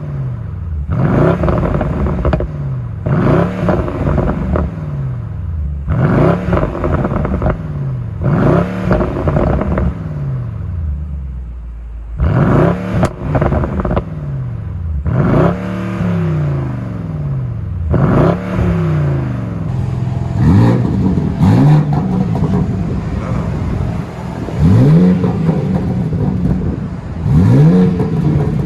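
Performance car engines revving hard again and again, each rev climbing sharply in pitch and then sliding back down, one every two to three seconds.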